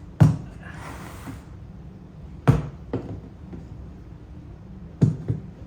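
Parts of a dump cart being handled and fitted together: three sharp knocks a couple of seconds apart, with a brief rustle after the first, over a steady low hum.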